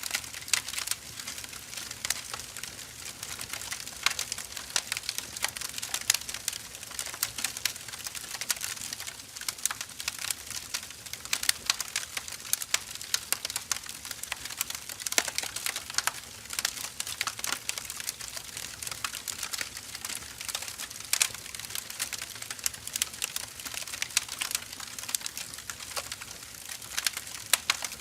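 Firewood burning, crackling and popping: a steady hiss with dense, irregular sharp snaps.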